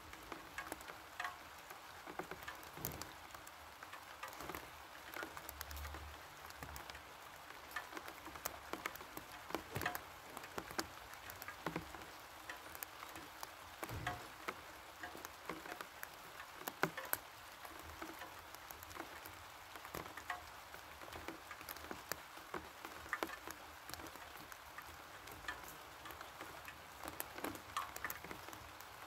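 Rain falling: a steady hiss with many irregular, sharp taps of drops striking.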